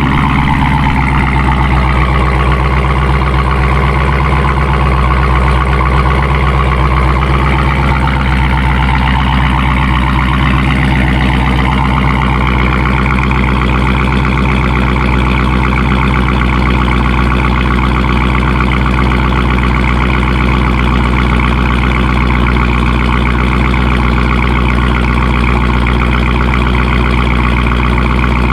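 Dodge Hellcat's supercharged 6.2-litre Hemi V8 idling steadily after a cold start, running through its stock rear mufflers with the mid-pipe removed. A faint higher whine dips and rises over the first dozen seconds.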